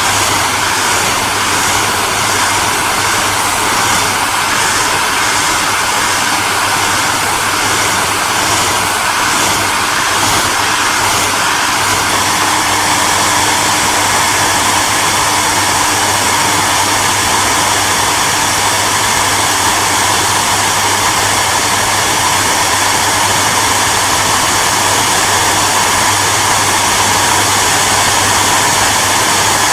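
Hair dryer running steadily: a constant rush of blown air over a low motor hum, the tone shifting slightly about twelve seconds in.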